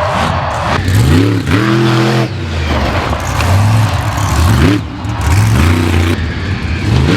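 Monster truck engine revving hard, its pitch climbing and dropping back about four times.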